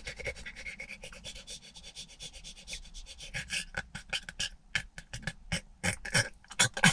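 Irregular rubbing and rustling with sharp clicks and crackles, growing busier about halfway through.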